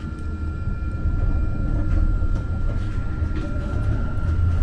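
Muni Metro light-rail car running along the track, heard from inside: a steady low rumble with a constant high tone above it and a few faint clicks from the wheels on the rails.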